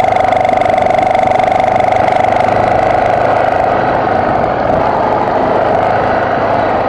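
BMW F650GS motorcycle engine running steadily on a dirt climb; from about halfway through its even note turns rougher and noisier.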